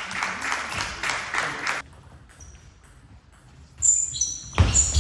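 Table tennis in a large hall: the plastic ball pings sharply off bats and table several times about four seconds in, with a heavy thump just after. Before that, a dense clatter of hall noise cuts off suddenly about two seconds in.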